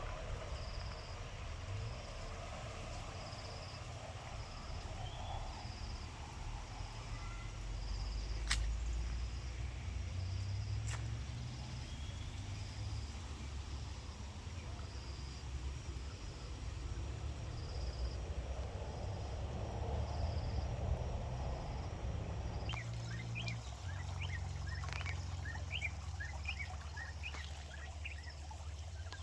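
Outdoor ambience with a steady low rumble. Birds chirp repeatedly in the last several seconds.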